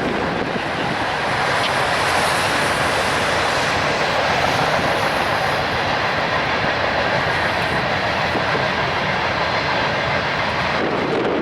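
Freight train rolling past: a steady, loud rush of wheel and rail noise as the cars go by.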